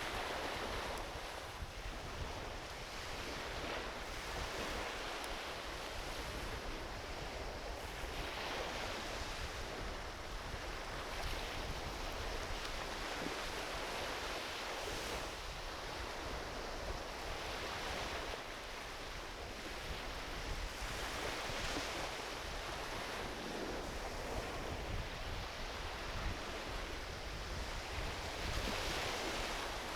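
Ocean waves washing onto a beach, swelling and easing every few seconds, with a low wind rumble on the microphone.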